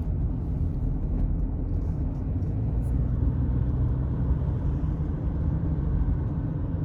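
Car on the move: steady low engine and road rumble.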